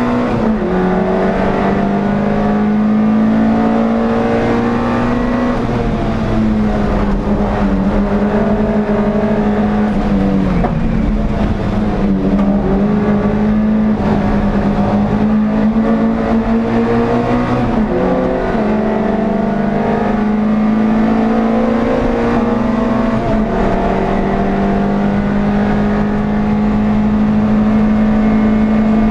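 NSU TT race car's air-cooled four-cylinder engine running hard at high revs, heard from inside the cabin. The note stays high and even, dropping briefly in pitch about four times before climbing back.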